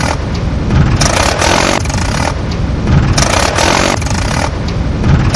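A vehicle engine revving in repeated surges, swelling and easing every second or two.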